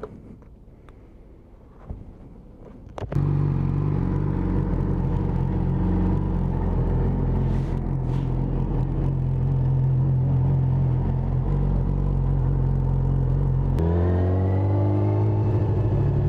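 A 2008 Yamaha R6's inline-four engine, heard through the stock exhaust with its catalytic converter and an SC Project end can, comes in suddenly about three seconds in and runs steadily. Near the end its revs rise.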